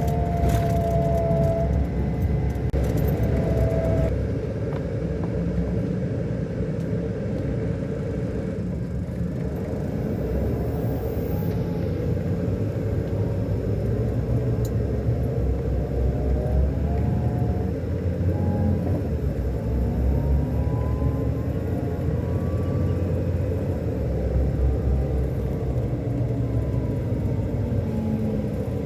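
Scania K400 coach's diesel engine running under way, a steady low rumble whose pitch rises and falls a few times as the engine speed changes.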